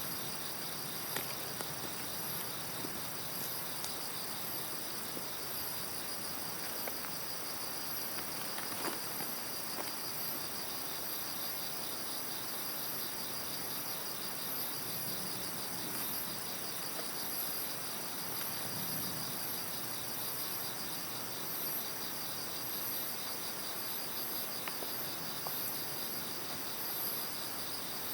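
Insects chirping without a break: a fast, even pulsing trill, with higher chirps coming and going above it. A few short crackles from the wood fire sound now and then.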